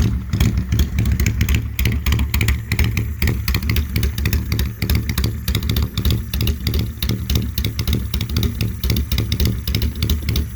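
Custom Honda Steed chopper's 600 cc V-twin engine running steadily at idle through a loud exhaust, a rapid, uneven stream of exhaust pulses.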